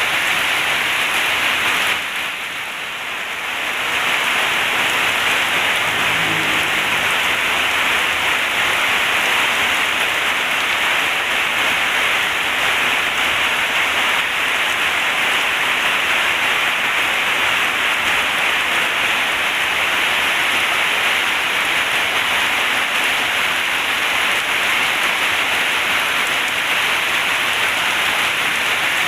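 Heavy rain pouring steadily, a dense even hiss that eases briefly about two seconds in.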